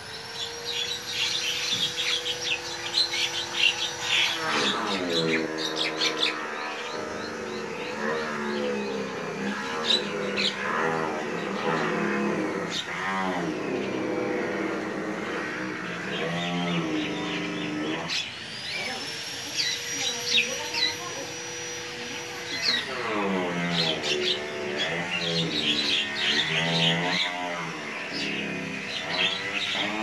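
Small birds chirping and twittering with short high notes, over held steady tones and wavering pitched sounds. The whole pattern repeats about halfway through, like a looped backing track.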